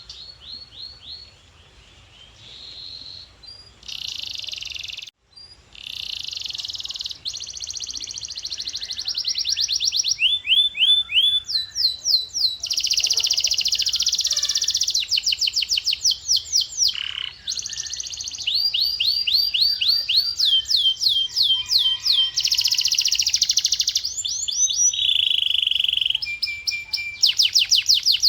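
Male canary singing: a fast, unbroken run of repeated rising sweeps and trills, soft and broken at first and louder from about six seconds in.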